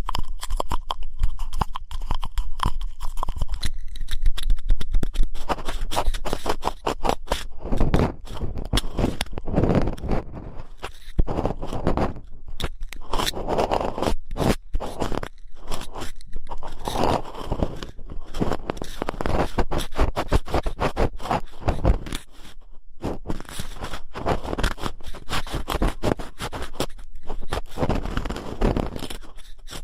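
Ear-cleaning ASMR: an ear pick scraping and scratching close up, in quick, irregular strokes broken by a few short pauses.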